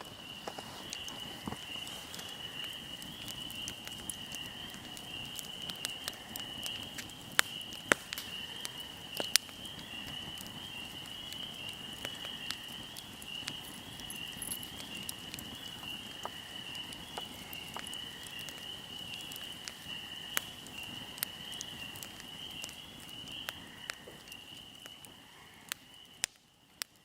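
Fire crackling with scattered sharp pops, a few much louder ones about a third of the way in, over a steady high trill of crickets or other insects. It fades out near the end.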